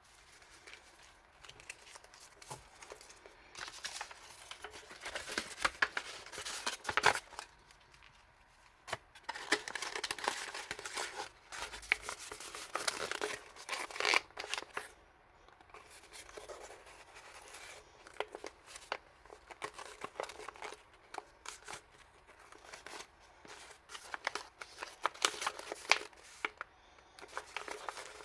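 Packaging being handled and opened by hand: crinkling and tearing with many small clicks, in spells of a few seconds separated by quieter pauses.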